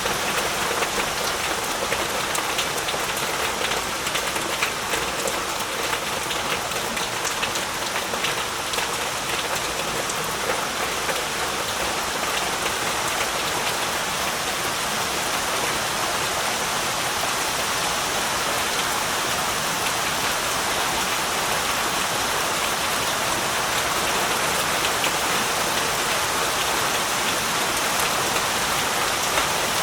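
Heavy rain falling steadily, with a dense patter of drops landing on surfaces.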